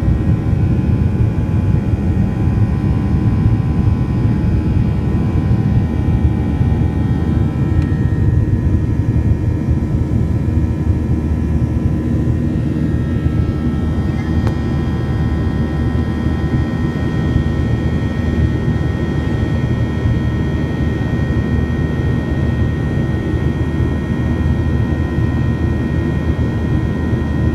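Airliner engines running steadily during the climb after takeoff: a loud, even rumble with several steady high engine tones that shift slightly about eight seconds in.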